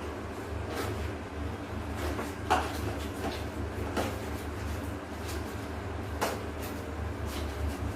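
Clothes being hand-washed: a few scattered knocks and clacks as the wet laundry and washing things are handled, over a steady low hum.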